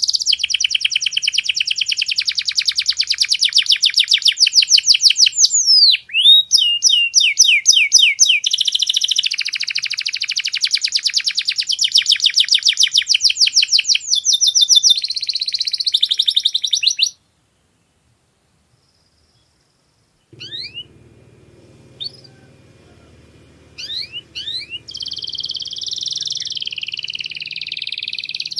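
Domestic canary singing in fast repeated trills and rolls, with a few sweeping whistled glides about six to eight seconds in. After about seventeen seconds the song stops for a few seconds of dead silence. It returns as scattered short rising chirps over a low hum, and the rapid trilling resumes near the end.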